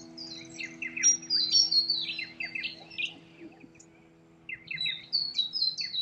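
Small birds chirping and twittering in quick runs of high notes, busy at first, with a short lull past the middle and another burst near the end.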